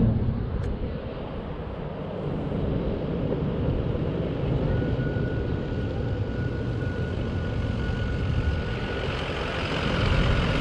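Lifted Ford F350 diesel pickup running with a steady low engine rumble and road noise. A faint steady high tone sounds for a few seconds in the middle.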